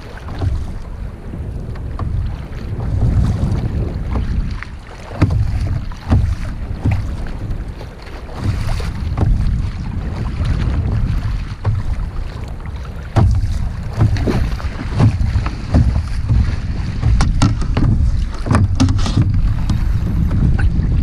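Wind buffeting the microphone over water sloshing and slapping around a kayak on the move, with irregular splashes and knocks.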